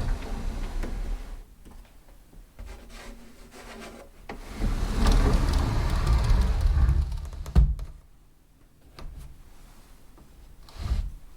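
Door sound effect: a door being moved, with a rumbling stretch that ends in one sharp thud about seven and a half seconds in, then a few smaller knocks.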